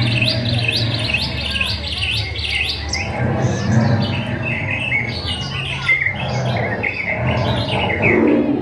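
Dense chorus of many chirping, tweeting bird calls, the soundtrack of an animatronic bird display, over a low steady hum.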